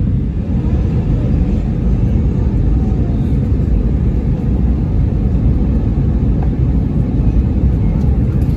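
Steady low rumble of an Airbus A319 cabin in flight on approach, the jet engines and airflow heard from inside the cabin.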